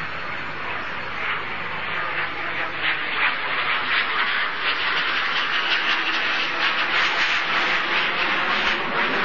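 Messerschmitt Me 262's two jet engines: a steady rushing jet noise that grows louder over the first few seconds, then holds.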